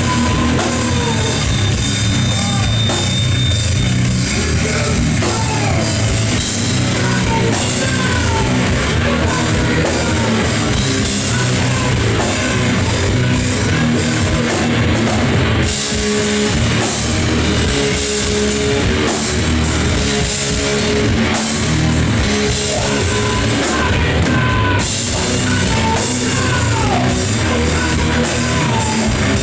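Live noise-rock band playing loud and steady: distorted electric guitar, bass guitar and a drum kit.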